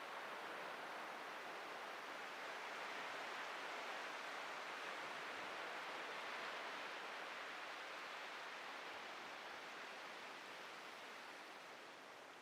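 Atlantic surf breaking and washing up a beach, a steady hiss that swells through the middle and eases off near the end.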